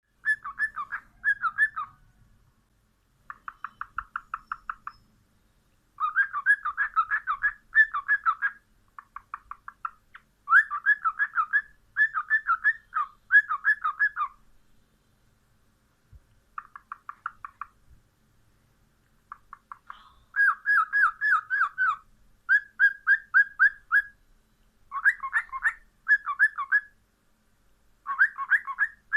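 Cockatiel calling in fast runs of short chirping notes, about eight a second, in phrases of one to two seconds separated by brief pauses.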